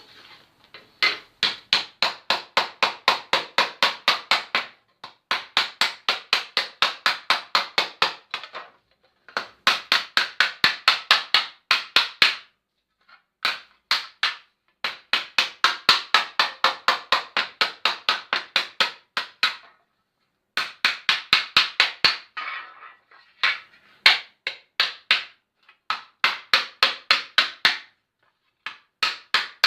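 Hand hammer beating a sheet-steel panel over a wooden stump to stretch and dome it: rapid, even blows about four a second, in bursts of a few seconds with short pauses between.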